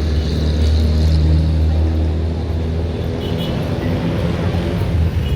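A steady low-pitched engine drone from a passing motor, loud at first and fading out about three seconds in, over general city and riverside background noise.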